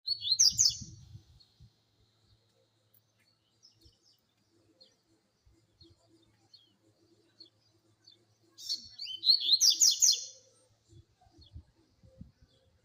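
Double-collared seedeater (coleiro) singing: a quick, high warbled phrase at the start and a longer, louder one about eight and a half seconds in, with faint chips and soft low knocks between.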